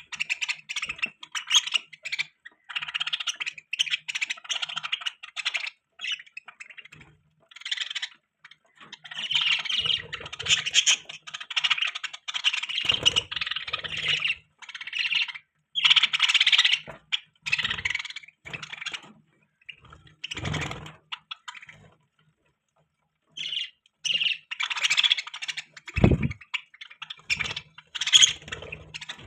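Budgerigars chattering and chirping in rapid, scratchy bursts, with short pauses between clusters and a break of about a second near the two-thirds mark. A single low thump about 26 seconds in.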